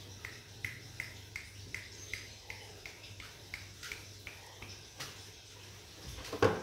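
Zebra dove (perkutut Bangkok) calling: a regular run of short high notes, about three a second, then a louder, lower call about six seconds in.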